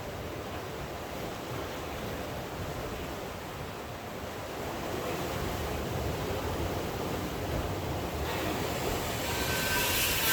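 Steady rain with sea surf, a continuous even wash of noise. About eight seconds in, a brighter hiss with a faint high whine joins it.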